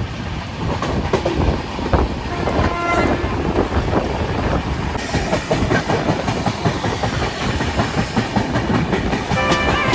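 Janshatabdi Express passenger train running, with a steady rumble and wheels clattering over the rail joints. Music comes in near the end.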